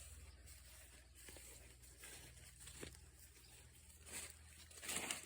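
Near silence: a low steady hum with faint rustling and a few soft clicks, the rustling a little louder near the end.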